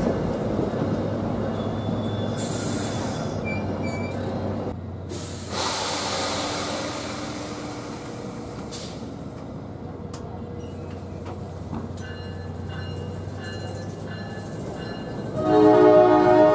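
NJ Transit commuter train's coaches rolling past with a steady rumble of wheels on rail, and a stretch of hiss midway. About fifteen seconds in, the locomotive's air horn sounds loudly, a chord of several notes held on.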